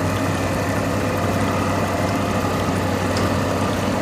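A tow boat's engine running steadily under load, a constant low drone as it pulls on a line to right a capsized pontoon boat.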